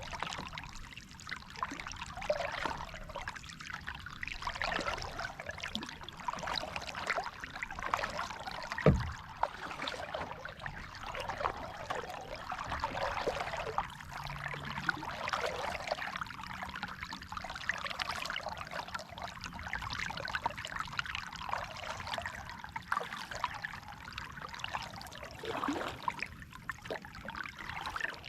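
Water trickling and splashing around a kayak in light rain, a dense patter of small drips, with one sharp knock about nine seconds in.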